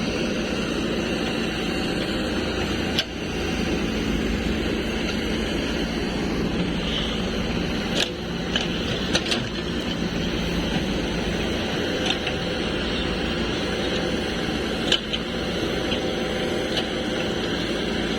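Heavy diesel machinery running steadily, with a few short, sharp knocks scattered through.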